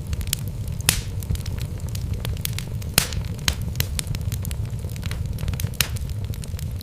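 Wood logs burning in a fireplace: a steady low rumble of flame with irregular sharp crackles and pops, the loudest pops about a second in and about three seconds in.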